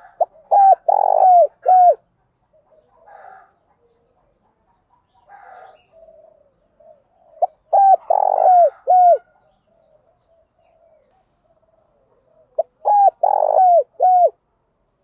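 Spotted dove calling: three loud cooing phrases, each a quick run of four or five coos, several seconds apart, with fainter calls in between.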